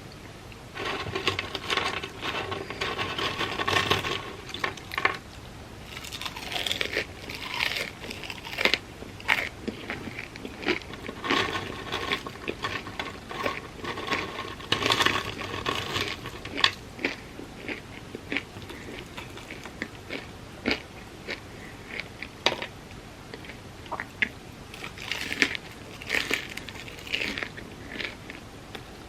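Close crunchy bites and chewing of crispy fried food, with the vegan fried chicken sandwich and fries being eaten. The crunching comes in several spells of rapid crackling, separated by quieter chewing and single crisp snaps.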